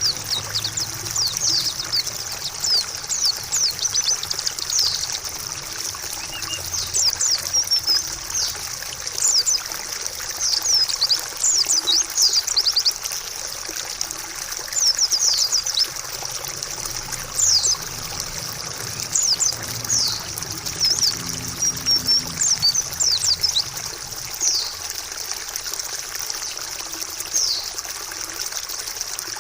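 Trickling water running steadily, with a white-eye (pleci) calling over it in many short, high, quickly sweeping chirps that come in irregular clusters.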